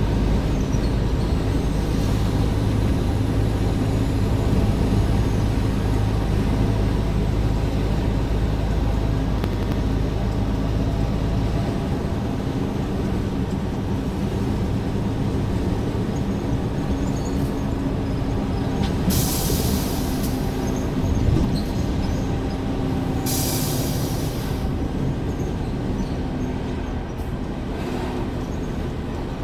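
Scania R410 truck's diesel engine running steadily while driving, its deep low rumble easing off about halfway through. Two short hisses of compressed air come near the end.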